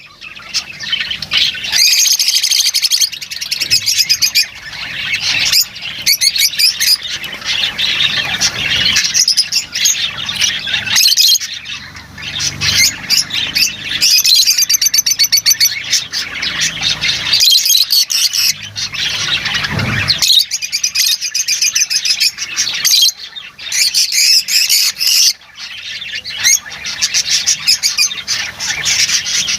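Lovebirds chattering and squawking without pause, a dense flock-like mix of shrill, fast, repeated calls.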